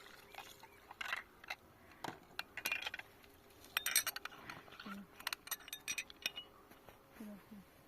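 Irregular light clinks and taps of small hard objects, glass or metal, being handled, thickest about halfway through.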